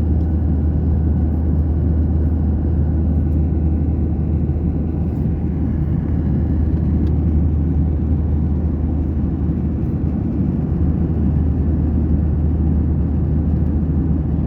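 Steady low rumble of airliner cabin noise: the engines and airflow heard from inside the passenger cabin, unchanging throughout.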